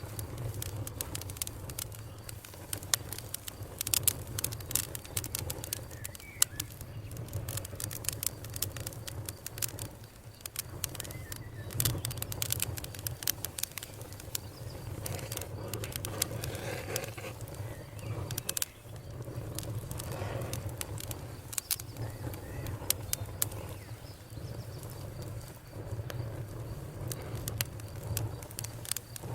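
Wood campfire crackling, with many sharp pops at irregular intervals over a steady low rumble.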